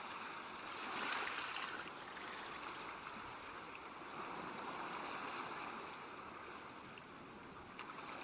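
Steady rushing of water, swelling briefly about a second in, with a few faint clicks.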